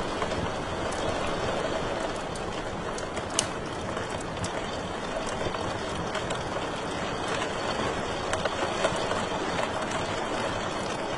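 Wood fire crackling in a fireplace: a steady hiss of burning with scattered sharp pops and snaps, one louder pop a few seconds in.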